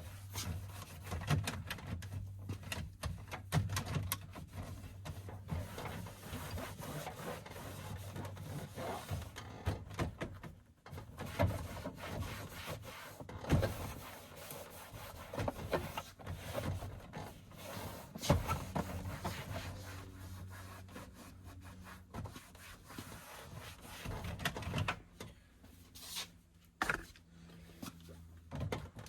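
Hands working on plastic interior trim: a long run of rubbing and scraping broken by irregular knocks and clicks, over a steady low hum.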